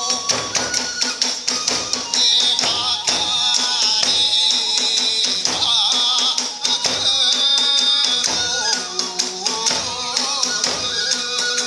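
Iwami kagura music: drums struck in a quick, driving rhythm under constantly ringing small hand cymbals, with a wavering bamboo flute melody over the top.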